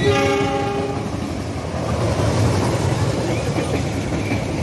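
Passenger train coaches rolling past close by, a steady loud rumble of steel wheels on the rails. In the first second a brief held multi-note tone sounds over it.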